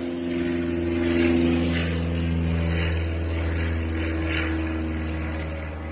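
A steady mechanical drone with a low hum, like a motor running, swelling slightly about a second in and easing off toward the end.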